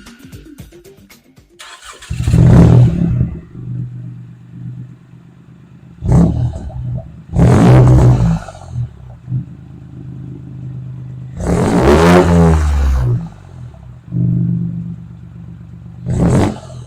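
BMW 1 Series engine through a new custom-made exhaust, revved several times in short and longer blips and dropping back to a steady idle between them.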